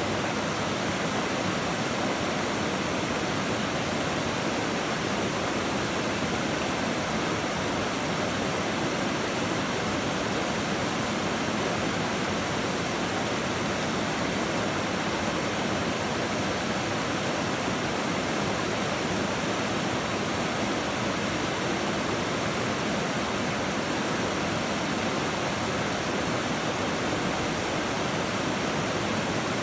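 River water rushing steadily, an even unbroken hiss of flowing water.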